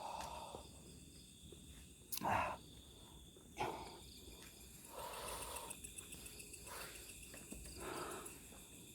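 Night insects, crickets, chirring steadily in high thin tones. A few short rustling noises come through, scattered across the stretch.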